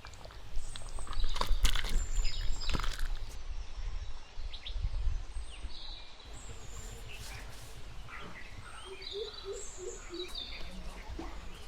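Birds chirping with short, scattered high calls over low background noise. A few sharp knocks come in the first three seconds.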